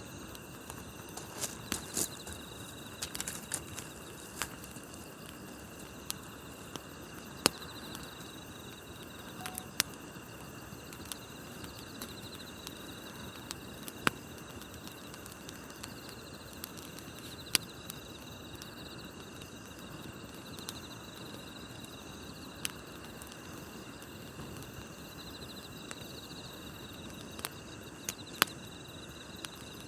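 A wood campfire crackling, with sharp pops every few seconds at irregular intervals, over the steady high chirping of crickets and other night insects.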